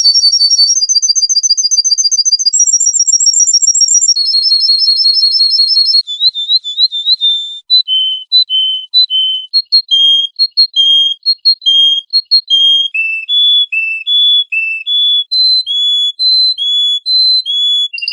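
A songbird singing in a series of high, clear phrases. Each phrase is a trill or a note repeated several times before the song switches to a new one. About six seconds in, the song breaks into separate whistled notes, roughly one to two a second, alternating in pitch.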